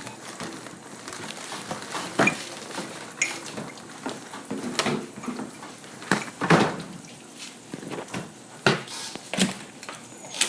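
A series of sharp knocks and clatters at uneven intervals, about eight in all, with the loudest about two seconds in and again past the middle, over a steady hiss.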